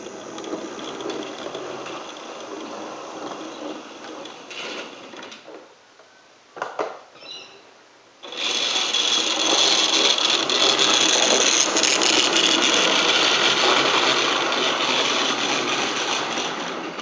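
Hornby OO gauge model locomotive's small electric motor running along the track. It stops about five and a half seconds in, a short click follows, and it runs again, louder, from about eight seconds in until it fades near the end.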